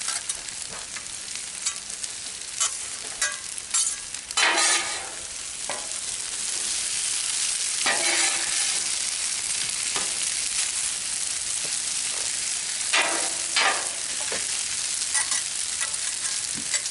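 Chicken and vegetable stir-fry sizzling steadily on a Blackstone flat-top griddle, growing louder about six seconds in. Short metal scrapes and clinks come at intervals, loudest about four and a half, eight and thirteen seconds in.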